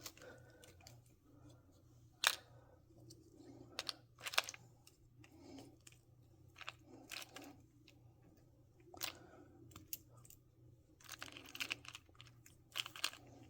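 Small plastic doll accessories being handled and sorted: scattered light clicks and short rustles, with a busier patch of clicking near the end.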